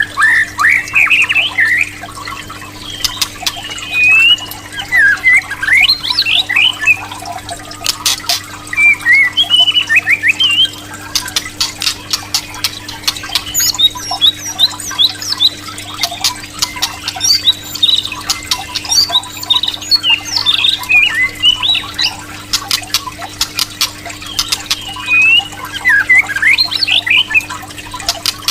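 White-rumped shama singing loud, varied phrases of rapid whistled glides and trills, broken by runs of sharp clicks. A steady low hum runs underneath.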